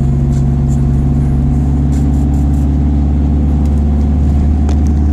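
Car engine running at a steady, unchanging pitch, heard from inside the car as a loud, even drone.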